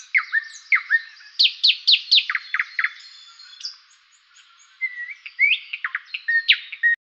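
Birds chirping in a quick series of short sweeping notes, thinning out in the middle and stopping near the end.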